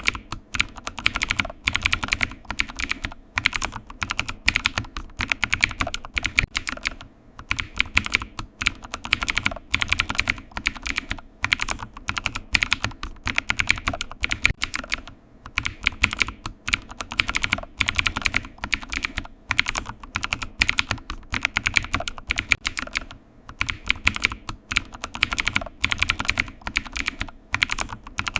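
Computer keyboard typing: fast runs of key clicks broken by short pauses every few seconds.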